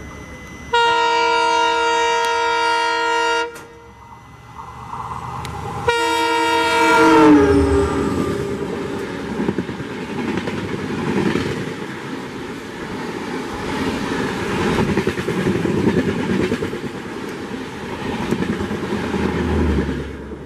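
WDP4D diesel locomotive's air horn sounds a steady blast of about three seconds as it approaches, then a second blast a few seconds later whose pitch drops as the engine passes close by. The express coaches then rush past at speed with a loud rumble and clickety-clack of wheels over rail joints, which falls away near the end as the last coach clears.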